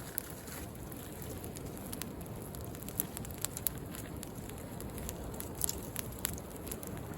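Wood bonfire crackling, with irregular sharp pops and snaps, over a steady low rush of sea waves.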